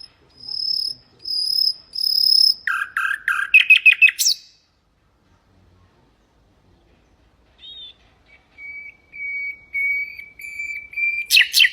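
Common nightingale singing: a few drawn-out high whistled notes, then a fast trill ending in an upward sweep. After a pause of about three seconds comes a run of lower repeated whistles that breaks into another loud, rapid trill near the end.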